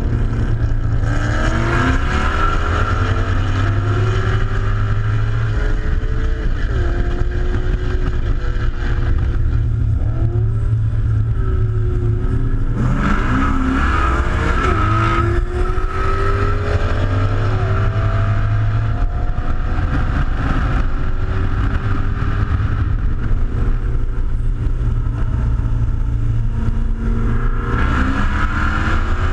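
Car engine at road speed, its note rising and falling several times as the revs climb and drop, over steady low wind and road noise.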